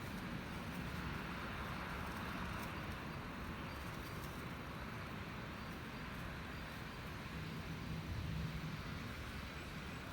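Steady city street noise, a low traffic rumble that swells briefly about eight seconds in.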